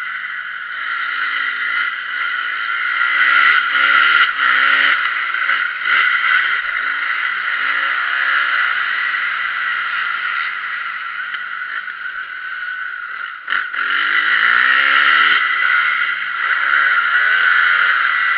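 Motocross bike engine repeatedly revving up and falling back as it is ridden round the track, under a loud steady hiss; the sound dips briefly about thirteen and a half seconds in, then returns.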